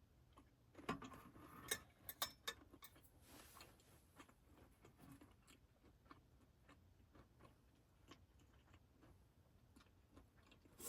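Quiet small clicks and taps, clustered about one to two and a half seconds in, then faint scattered ticks.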